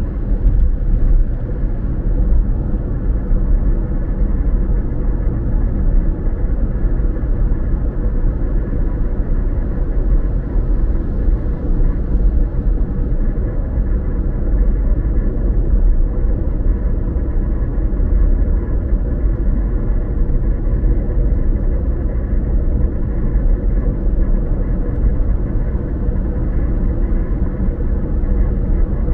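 A car driving at a steady speed: a continuous low rumble of engine and tyres on the road, with a faint steady hum running through it.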